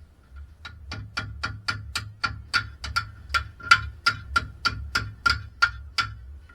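Quick, even hammer taps on a metal part, about three a second, each with a short metallic ring; they start just under a second in and stop near the end.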